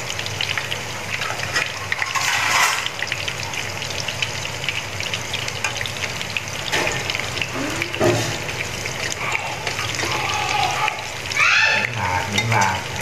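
Battered small-shrimp fritters deep-frying in a pan of hot oil: a steady crackling sizzle.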